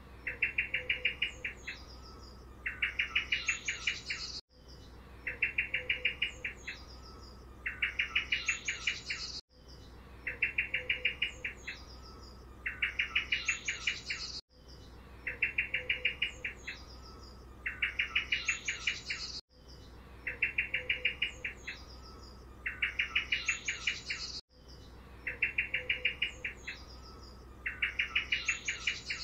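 Songbird chirping: the same short phrase, two rapid rattling trills with higher chirps among them, repeats about every five seconds, six times. A faint low hum runs underneath.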